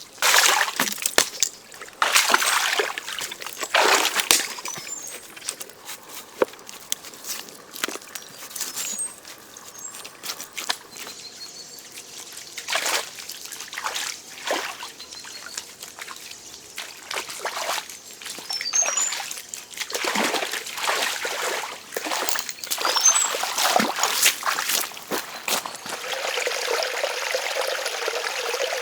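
Water splashing and trickling in uneven surges, some louder sloshes among a steady trickle.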